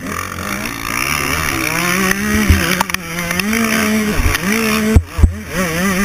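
Dirt bike engine heard from the bike itself, revving up and down with the throttle: the note climbs about two seconds in, holds, drops back and picks up again near the end. A few short low knocks are heard toward the end.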